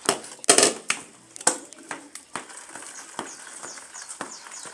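Irregular knocks and clatter, a handful of separate sharp hits, as a cooking pot and its contents are handled while the boiled chicken is drained. The loudest knock comes about half a second in.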